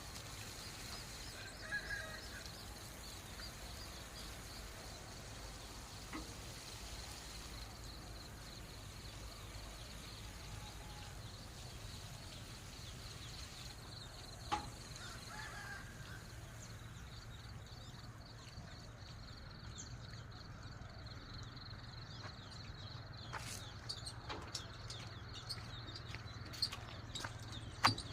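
Outdoor rural ambience: a high chirp pulsing rapidly and steadily, with two short animal calls, one about two seconds in and one midway. A run of sharp clicks and ticks comes in the last few seconds.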